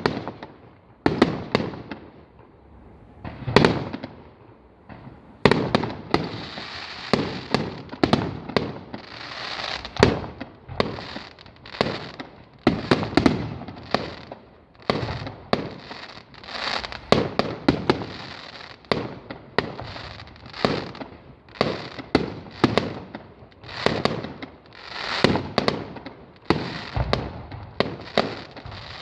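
Fireworks display: aerial shells bursting with loud booms and echoing tails, a few spaced bangs at first, then a dense barrage of overlapping bursts and crackling from about six seconds in.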